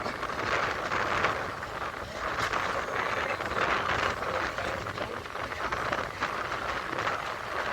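Running noise of an Indian Railways express train heard from on board: a steady rushing rumble of wheels on rails with irregular rattling clatter throughout.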